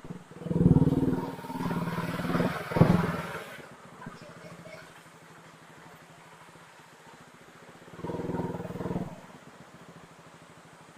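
Motorcycle engine revving in short bursts over a low steady running note, picked up by an action camera's microphone: one long burst of revving in the first few seconds and a shorter one about eight seconds in.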